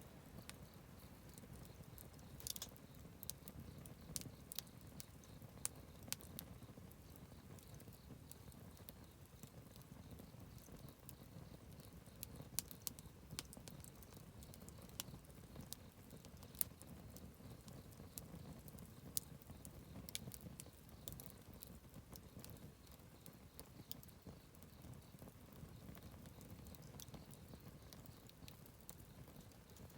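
Wood campfire crackling softly: scattered sharp pops and snaps, a few close together, over a low, steady rumble of burning.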